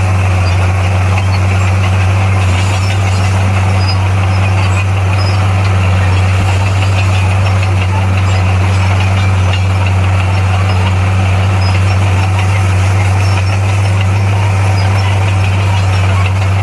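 Heavy diesel engine of earthmoving equipment running steadily with a deep, even drone.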